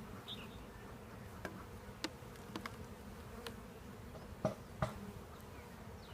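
Honeybees buzzing steadily around an opened hive, with scattered light clicks and two sharper knocks about four and a half seconds in.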